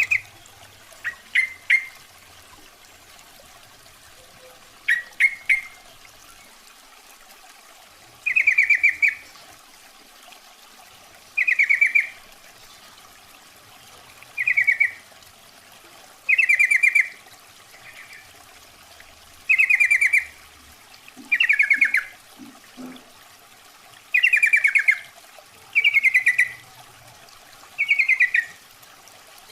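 Yellow-vented bulbul (trucukan) calls used as a lure: a female calling to males. Short, quick warbling phrases repeat every two to three seconds, after a few sharp single notes in the first few seconds.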